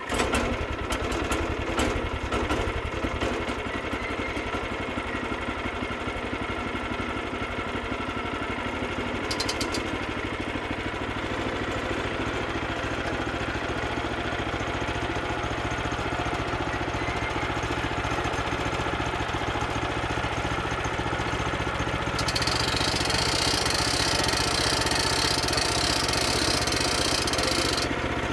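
Sawmill's small engine starting from cold and then running steadily at idle. A higher hiss joins the engine for the last several seconds.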